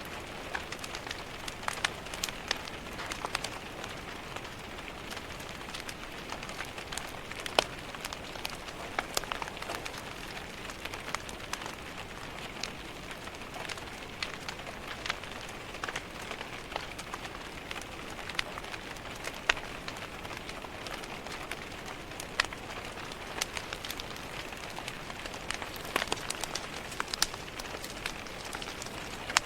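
Steady rain pattering on a window, mixed with the irregular snaps and pops of a crackling wood fire in a fireplace.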